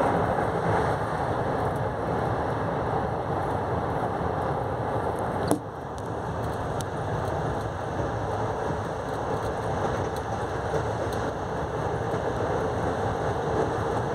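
Passenger train running along the line, a steady rumble of wheels on rails heard from inside the carriage. A single sharp knock comes about halfway through, after which the noise is a little quieter.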